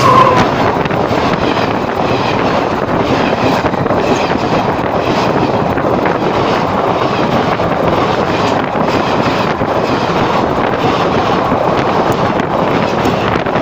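Passenger train coaches running directly over the track at speed, heard from between the rails: a loud, continuous roar of steel wheels on rail with repeated clatter and a rush of air.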